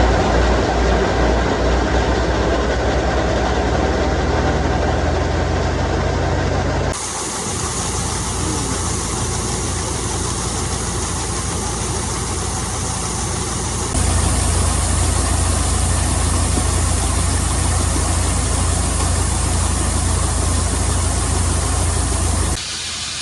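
Heavy farm machinery engine running steadily, in three spliced shots whose sound changes abruptly about seven seconds in and again about fourteen seconds in.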